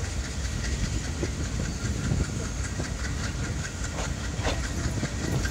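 Passenger train coaches running on the track as the train leaves a station, heard from an open coach doorway. There is a steady rumble and rush of air, with irregular wheel clicks on the rails.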